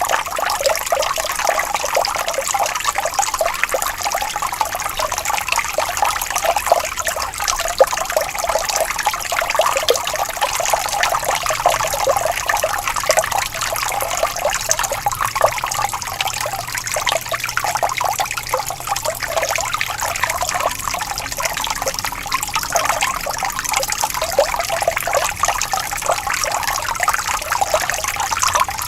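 Water flowing gently, a steady trickling and babbling with fine splashes and no pauses.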